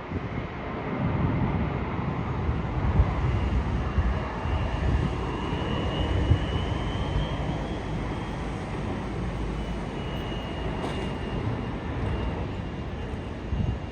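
A fixed-wing aircraft's engines running as it passes, a steady rushing noise with a faint high whine in the middle.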